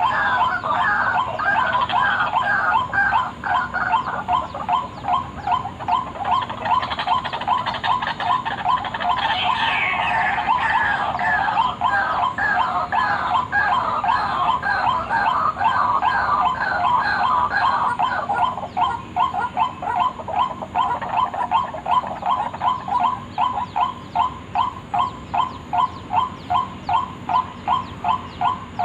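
White-breasted waterhens (ruak-ruak) calling in a fast run of repeated croaking notes, about two to three a second. For the first part several birds call over one another; a little after halfway it thins to one bird's even series.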